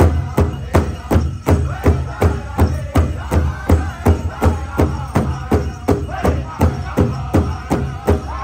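Powwow drum song: a large drum struck in unison on a steady beat, a little over two strokes a second, with a group of voices singing over it.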